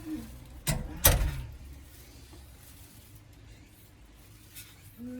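A door being shut: two sharp knocks close together about a second in, then low room noise.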